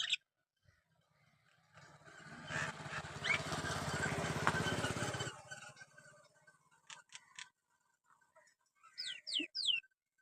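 Myna bird calling. A harsh, buzzy stretch of about three and a half seconds comes first, with short whistles inside it. A few sharp clicks follow, then three quick whistles falling in pitch near the end.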